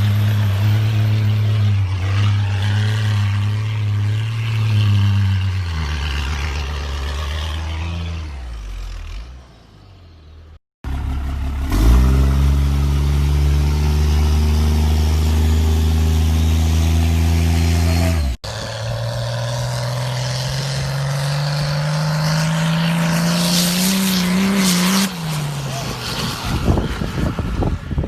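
Diesel truck engines in three separate clips. The first runs steadily, then winds down and fades. The second runs loud at a steady pitch. The third rises in pitch as it accelerates for several seconds, then eases off near the end.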